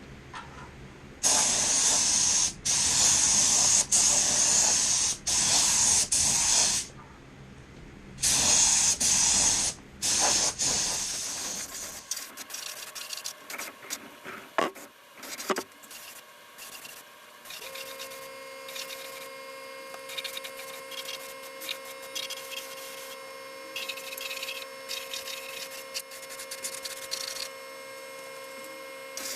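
Aerosol spray can spraying paint in a run of hissing spurts, each about one to two seconds long with short pauses between. It stops about eleven seconds in and gives way to scattered light clicks, then a quieter steady hum.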